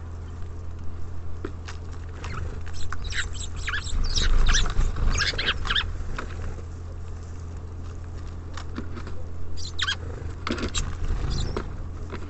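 Small birds at a feeder making quick runs of short, high clicks and chirps, mostly in two clusters, with a low bump about four seconds in, over a steady low hum.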